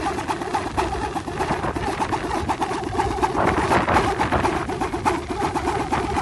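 Balinese pindekan, a wooden wind-driven propeller, whirring in the wind with a steady, fast pulsing drone like an idling engine.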